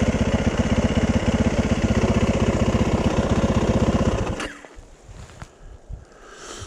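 Yamaha 450 dirt bike's single-cylinder four-stroke engine idling with a steady, even beat, then shut off about four seconds in, the sound stopping abruptly.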